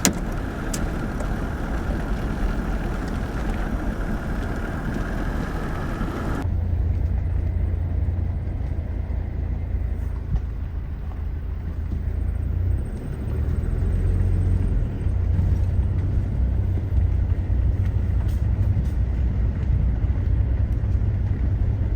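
Four-wheel-drive vehicle driving slowly on a dirt farm track, a steady engine and road noise. About six seconds in the sound changes abruptly to a duller, low engine drone.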